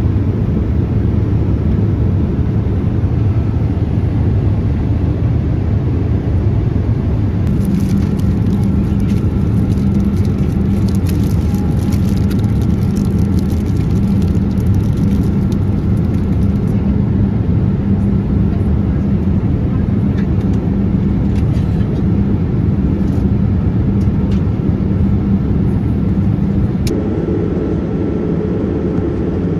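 Steady cabin noise of a Boeing 787-8 airliner: a constant low rumble of engines and airflow, with faint light ticks partway through and a small shift in the low hum near the end.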